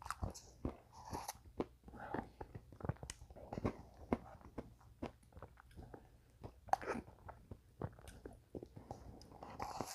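Close-miked eating of a chocolate mint Blizzard: scattered wet mouth clicks, small crunches and chewing, in short irregular bursts.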